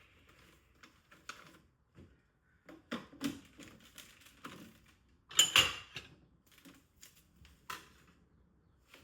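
Light clicks and knocks of small hard objects being handled, with two loud sharp knocks close together a little past the middle.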